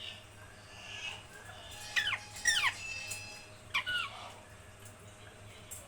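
Pet parrot squawking: three short calls falling sharply in pitch, about two seconds in, half a second later, and again near four seconds, with a brief steady whistle between them.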